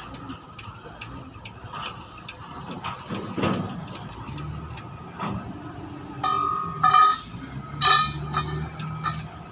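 Scattered metallic clinks and taps of tools at work on a truck wheel, over a low steady engine hum, with two short ringing metallic tones in the second half.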